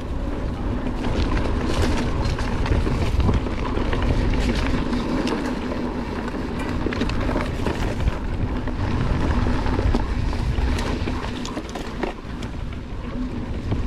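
Wind noise on the microphone of a moving bike being pulled by dogs along a dirt trail, with a steady hum and many scattered clicks and rattles from the bike and trail.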